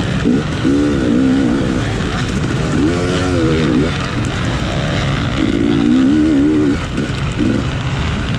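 Off-road race motorcycle engine revving hard and easing off again and again as the rider works the throttle and gears, over heavy wind noise on the microphone.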